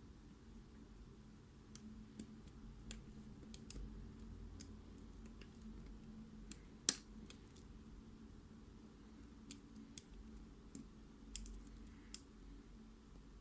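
Faint, scattered small metallic clicks and ticks from tools working a Mul-T-Lock MT5+ lock cylinder, irregularly spaced, with one sharper click about seven seconds in.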